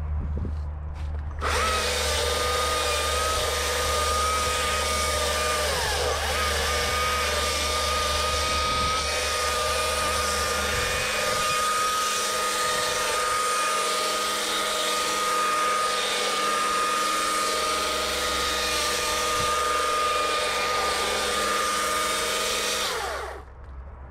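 Stihl MSA 220 battery chainsaw cutting into a hollow oak trunk. It makes a steady high whine that starts abruptly about a second and a half in, dips in pitch once around six seconds in, and stops near the end.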